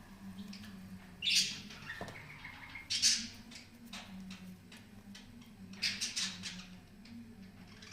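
Birds calling in short harsh chirps and squawks, in loud bursts about a second and a half in, at three seconds and again around six seconds, with smaller chirps between. A steady low hum runs underneath.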